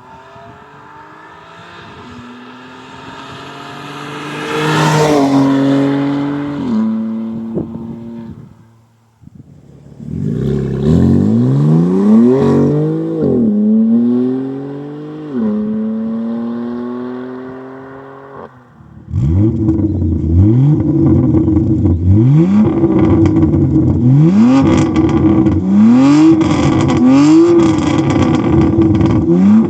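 BMW M3 F80's S55 twin-turbo straight-six running through an equal-length exhaust. It first climbs in pitch, then the note drops away. Next it accelerates through the gears, the pitch climbing and falling back at each upshift. From about two-thirds of the way in, it gives a run of quick climbs in pitch, about one a second.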